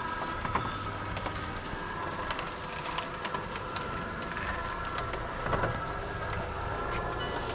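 Electric roller shutter running, its slats rolling and rattling steadily through the guide rails, with a faint motor hum and scattered small clicks.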